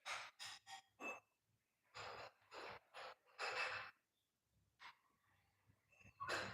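Pet parrot making quiet, breathy hissing sounds in short bursts: four quick ones in the first second, then several longer ones between about two and four seconds in.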